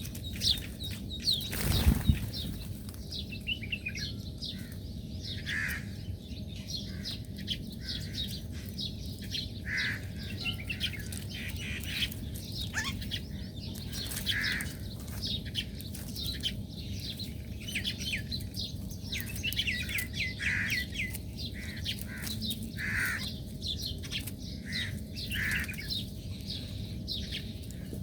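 Small birds chirping and twittering in many short, overlapping calls, with a brief loud rush of noise about two seconds in.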